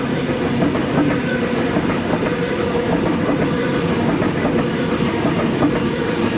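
Sydney Trains Waratah A set electric multiple unit passing through the station, its wheels clicking over the rail joints under a steady motor hum.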